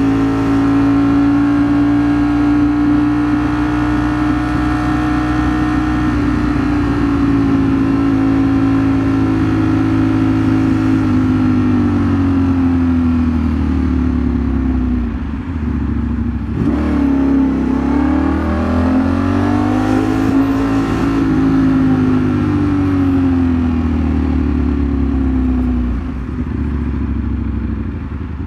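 Ducati Streetfighter V4 S's V4 engine heard while riding. It holds a steady note, then drops in pitch about halfway through, climbs again and falls off once more, ending quieter near the end.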